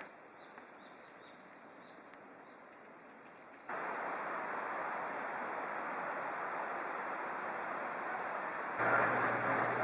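Steady rush of running water, like a mountain stream, starting abruptly about four seconds in and louder from about nine seconds. Before it there is quiet, with a few faint high chirps.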